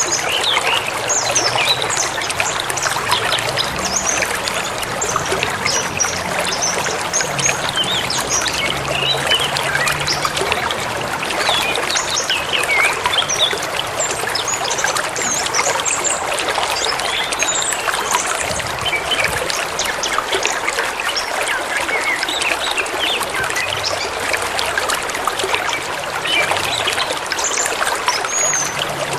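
Forest river flowing and babbling steadily over stones, with many small birds chirping and calling over the water.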